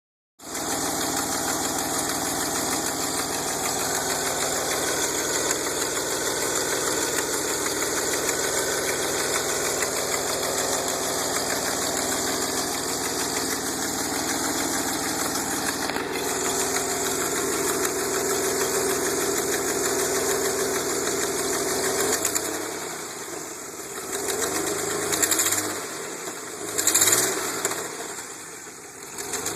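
DeLorean DMC-12's PRV V6 running with a leaking exhaust, a steady engine and exhaust note. Past the two-thirds mark the sound changes and swells twice into short louder peaks near the end.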